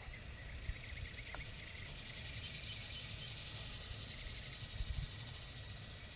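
Outdoor ambience: a steady high-pitched insect chirring, likely crickets, over low rumbling noise, with a few faint ticks in the first couple of seconds.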